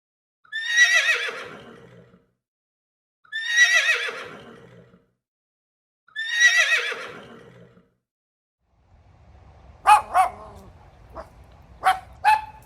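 Horse whinnying three times, each a falling, wavering call about a second and a half long, spaced about three seconds apart. Near the end come several short, sharp calls over a low background noise.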